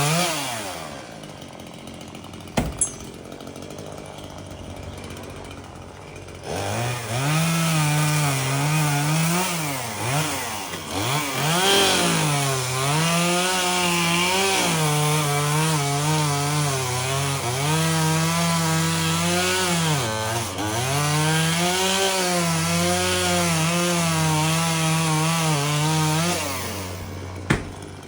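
Chainsaw dropping to idle, then revved up about six seconds in and cutting through tree branches, its pitch dipping several times as it bogs under load, before falling back to idle near the end. A sharp click shortly after the start and another near the end.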